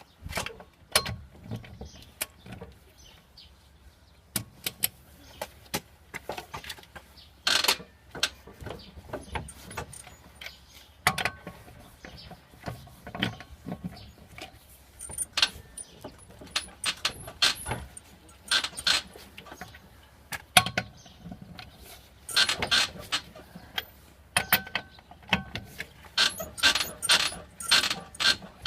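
Irregular metallic clinks and knocks, some in quick clusters, typical of hand tools and metal parts being handled during car repair work.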